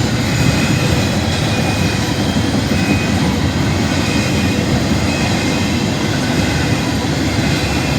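Freight train cars rolling past, a loud steady rumble of wheels on the rails.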